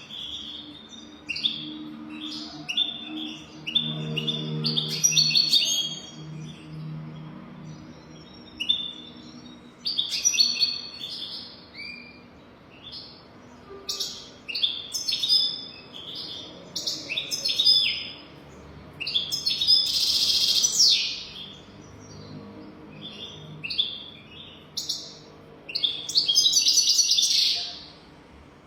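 European goldfinch singing: bursts of quick, high twittering notes and trills separated by short pauses, with two louder buzzy, rasping passages, one about two-thirds of the way through and one near the end.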